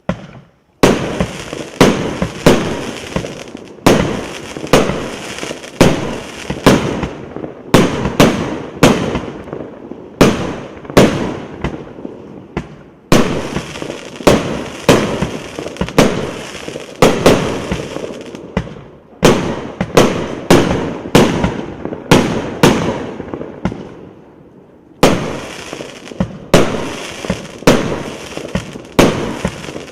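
A 178-shot, 1.2-inch firework cake firing: a rapid run of bangs, one to two a second, each trailing off briefly, with a short lull about four-fifths of the way through before the shots resume.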